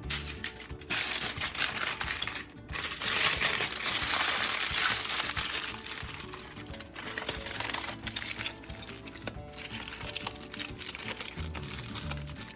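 Aluminum foil crinkling and crackling in irregular bursts as a wrap is folded up in it, loudest a few seconds in, over background music.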